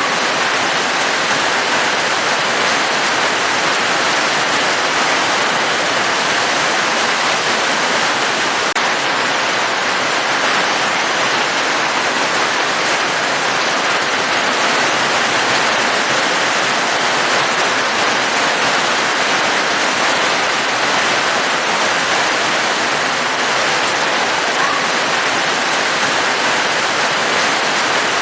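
Steady rain: a dense, even hiss of falling water that holds level throughout.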